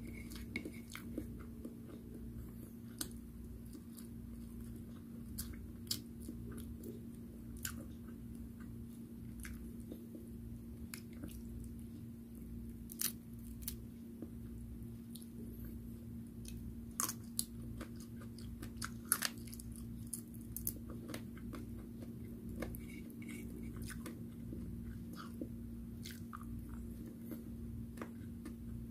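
Close-up chewing and biting of fried shrimp and meats, with scattered sharp crunchy clicks and a shrimp being pulled apart by hand. A steady low hum runs underneath.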